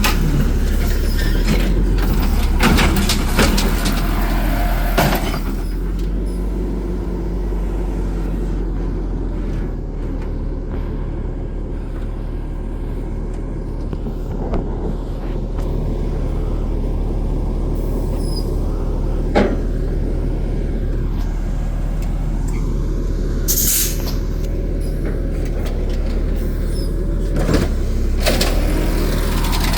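Garbage truck's diesel engine running steadily, with scattered knocks and clanks and a short air-brake hiss about three quarters of the way through.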